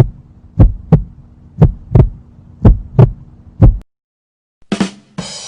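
Heartbeat sound effect: paired lub-dub thumps about once a second, repeating four times and stopping about four seconds in. Near the end comes a short thump, then a bright hiss-like sound begins.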